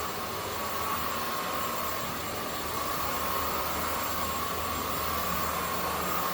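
Zoker A10 Pro cordless stick vacuum running steadily on its high power setting: a rush of air with a steady mid-pitched motor whine.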